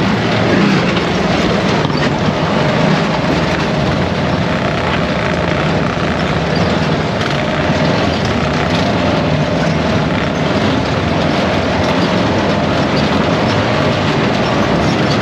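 ATV engine running steadily while riding a trail, with steady rumble and rattle from the machine.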